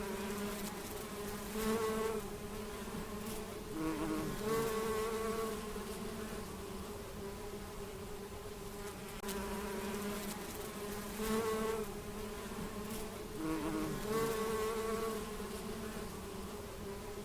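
An insect buzzing steadily, swelling louder and higher in short passages every few seconds; the same stretch of buzzing plays twice over.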